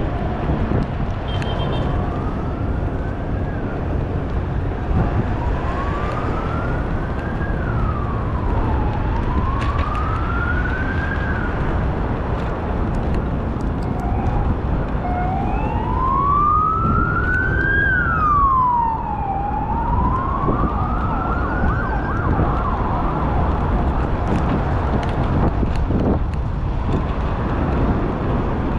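An emergency vehicle's siren wailing, slowly rising and falling in pitch about every four seconds over a steady low rumble, then fading out a little after twenty seconds in.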